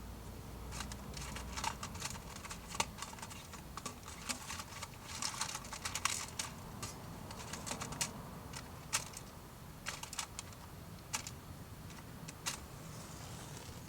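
Wood burning in a small homemade wood stove, crackling with irregular sharp pops that come thickest in the middle and thin out near the end.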